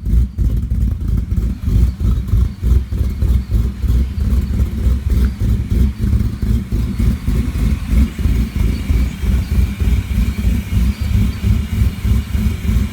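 2001 Ford SVT Lightning's built, supercharged 5.4 L V8 with Comp Cams camshafts, idling with an uneven, choppy lope from the cams on its break-in tune.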